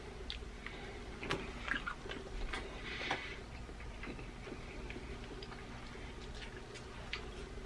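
A person chewing a bite of baked chicken: faint wet mouth clicks and smacks, a few of them louder between about one and three and a half seconds in, then finger-licking near the end, over a low steady room hum.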